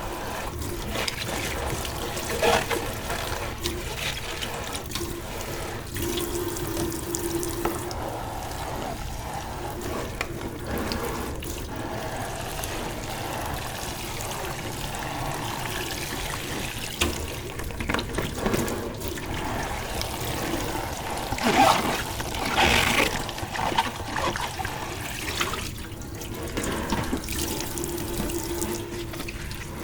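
Tap water running into a kitchen sink while dishes are washed, with occasional clinks and knocks of dishware. The loudest clatter comes about two-thirds of the way through.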